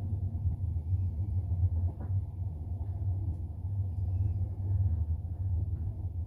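Double-decker passenger train running along the track, heard inside the carriage as a steady low rumble with small irregular swells.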